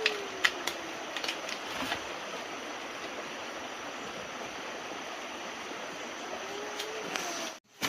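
Steady rushing noise, like flowing water or wind, with scattered sharp clicks and snaps, most of them in the first two seconds.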